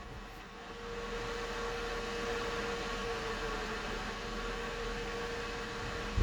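Steady mechanical whirring hum, rising in about a second in and holding level, with a faint steady tone during the first few seconds and a sharp thump at the very end.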